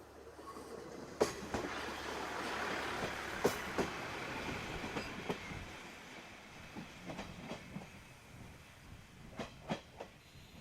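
Diesel railcar running past over the rails. Its running noise swells and then fades, while the wheels give sharp clicks over rail joints: a few about a second in and around three and a half seconds, then a series of lighter clacks near the end.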